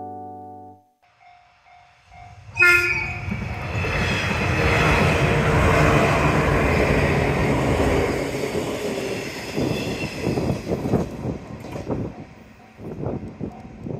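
Level-crossing warning bell ringing, then a short horn blast from a JR 185 series electric train about two and a half seconds in. The train runs past close by, loudest midway, and fades as it goes away, its wheels clicking over the rail joints.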